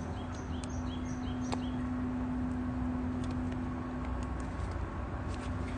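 Campfire crackling with scattered sharp pops, under a steady low hum. A small bird gives a quick run of short, high, falling chirps in the first second or so.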